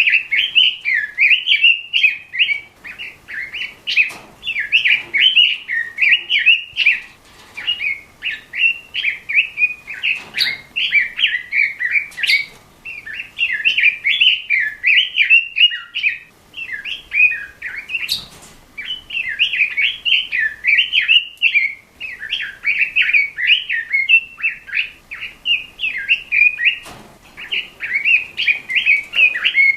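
Red-billed leiothrix (Pekin robin) singing vigorously: long runs of rapid, high warbled notes broken by brief pauses, with a few faint clicks.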